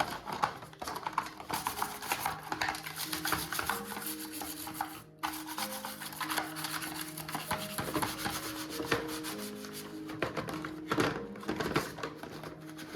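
Repeated rubbing or scrubbing strokes on a surface, over soft background music with held notes. The rubbing breaks off briefly about five seconds in.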